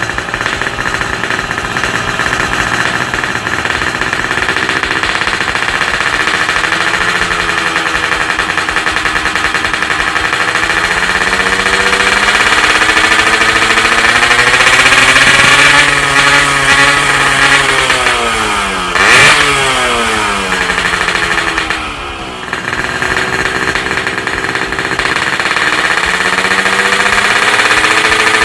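Yamaha RX-King's two-stroke single-cylinder engine revving through an aftermarket exhaust, its pitch rising and falling repeatedly. It climbs to its highest and loudest a little past two-thirds of the way, with a quick sharp blip, then eases off briefly before revving up again.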